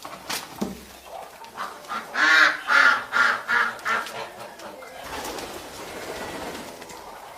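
Domestic poultry calling: a quick run of loud calls between about two and four seconds in, with quieter calls around them.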